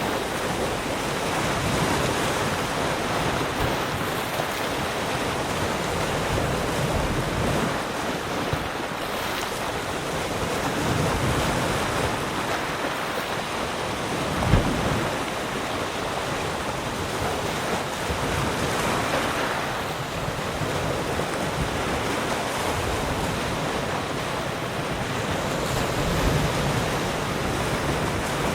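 Ocean waves breaking and washing onto a shore: a continuous rush of surf that slowly swells and eases, with one brief thump about halfway through.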